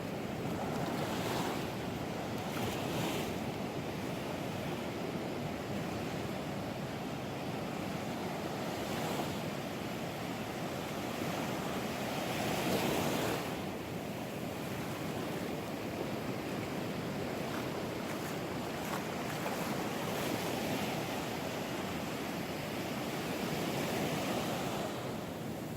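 Ocean surf breaking and washing on a beach, a steady rushing noise that swells louder about halfway through.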